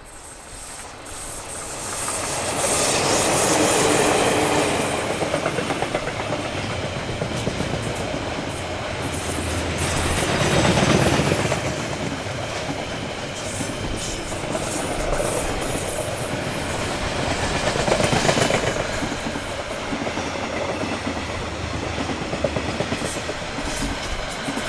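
A train passing close by, its wheels clattering over the rail joints. The sound swells up about two seconds in and stays loud, rising and falling as the train goes by.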